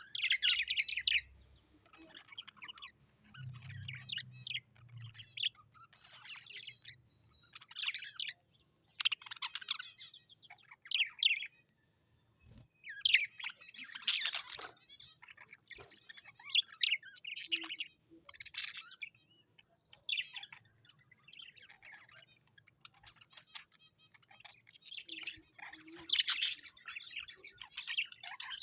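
Birds chirping and squawking in bursts of quick calls that come every second or two, with short pauses between them.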